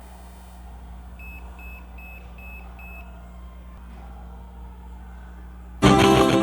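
Micro system stereo: five short, evenly spaced electronic beeps over a steady low hum, then music from the CD player starts loudly near the end.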